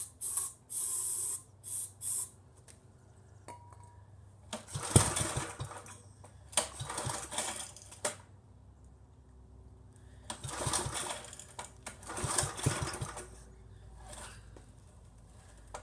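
Small single-cylinder engine on a homemade go-kart being pull-started: four separate recoil-starter pulls, each about a second long with fast pulsing as the engine turns over, and the engine does not keep running. A few short hissing bursts come in the first two seconds.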